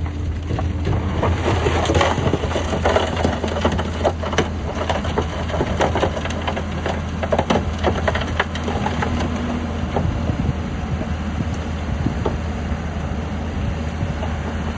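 A heavy diesel engine running steadily under loose rock and fill crunching and cracking as it is pushed or dumped. The crunching is dense through the first half and thins out later.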